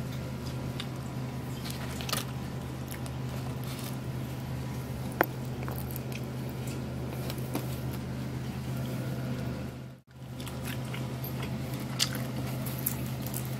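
Someone chewing food, with small wet clicks and smacks scattered through, over a steady low hum. The sound drops out for a moment about ten seconds in.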